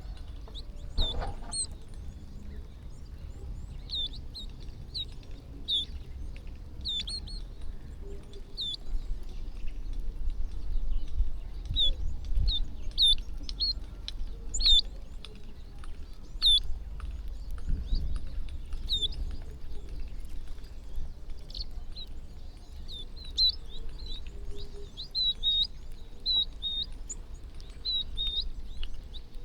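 A flock of small birds chirping, with short, high chirps coming several times a second and overlapping throughout, over a steady low rumble.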